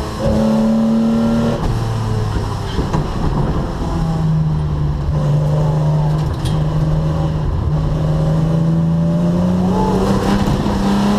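Datsun 260Z's straight-six racing engine heard from inside the cabin on a hot lap: revving high briefly, dropping off sharply about a second and a half in, then pulling again and rising steadily in pitch as the car accelerates down the straight.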